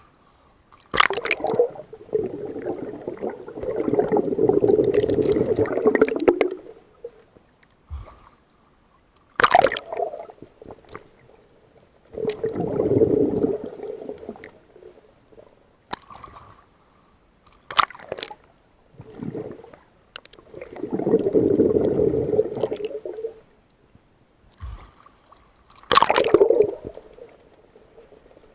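Water sloshing and gurgling in surges that come back about every eight seconds, each opening with sharp splashing clicks.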